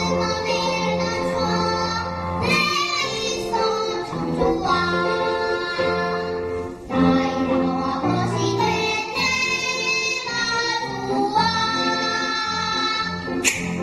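A child singing a song with instrumental accompaniment, with sharp percussion strikes coming in near the end.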